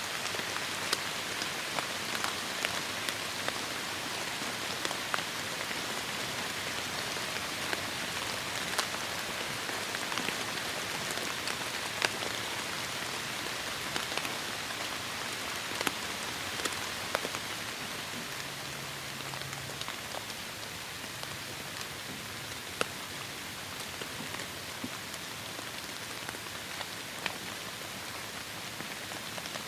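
Heavy rain falling steadily, an even hiss with many sharp drops ticking on a surface; it eases slightly after the middle.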